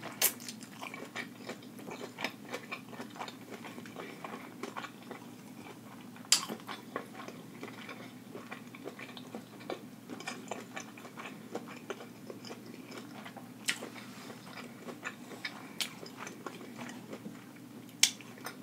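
A person chewing a mouthful of seafood boil close to the microphone: a steady run of soft mouth clicks, with a few sharper clicks about six, fourteen and eighteen seconds in.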